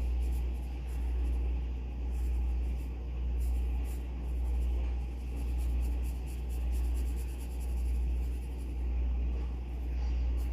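Graphite pencil scratching on paper in many short strokes, over a loud low hum that swells and fades about once a second.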